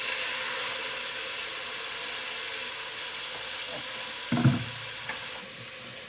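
Seasoned chicken sizzling in hot oil and curry in a pot, a steady hiss. A brief thump about four and a half seconds in is the loudest sound, and the hiss softens a little near the end.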